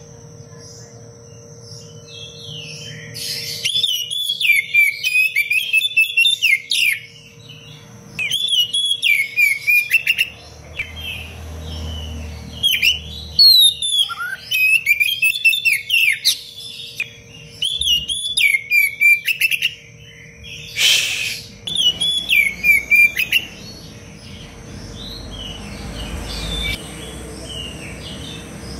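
Oriental magpie-robin (kacer) singing in fast, tightly packed phrases of varied sharp chirps and whistles, each run lasting a few seconds with short pauses between them. A brief noisy rush cuts in about two-thirds of the way through.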